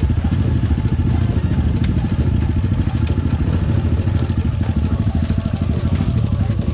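Enduro motorcycle engine running steadily at low revs, with frequent knocks and rattles over it.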